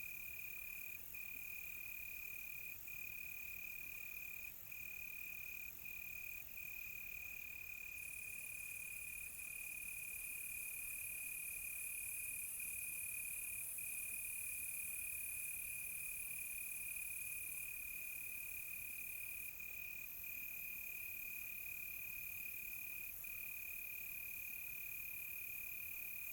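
Crickets trilling in one continuous, steady high-pitched chirr with a few brief breaks, over a fainter, higher hiss that grows louder in the middle and then drops back.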